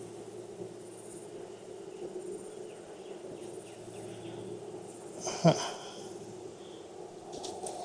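Honeybees humming steadily around an open hive, with one short, sharp knock about five and a half seconds in.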